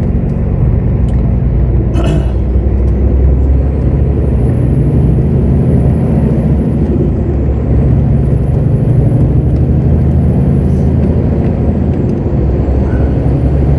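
Heavy truck's diesel engine running steadily while driving, with a faint high whine that rises and falls. A brief sharp noise about two seconds in.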